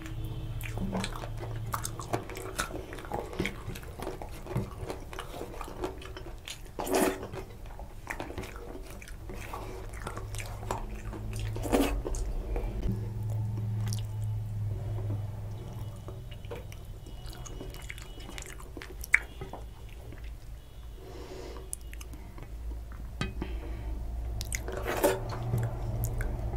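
Close-up chewing and wet mouth sounds of eating mutton curry and rice by hand, with scattered clicks and smacks of fingers working the food on a steel plate.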